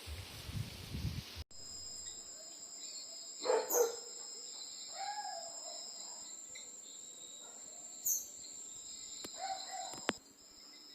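A rustling hiss cuts off suddenly about a second and a half in, giving way to a steady high insect drone. Over the drone come a few short animal calls, the loudest a little after three seconds in, and a couple of sharp clicks near the end.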